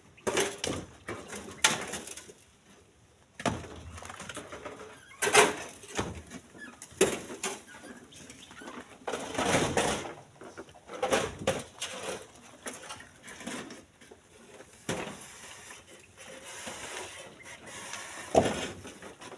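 Split stones being loaded by hand into a truck bed: irregular knocks and clatters of rock, with a longer grinding rush of stone near the middle.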